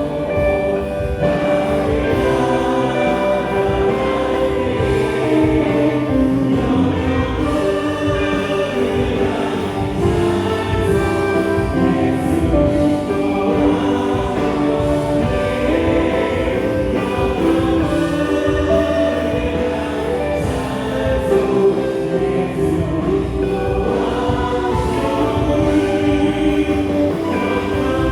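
Contemporary Christian worship music: a praise band of drums, bass guitar, electric guitar and keyboard accompanying a group of singers in a Korean praise song, played steadily without a break.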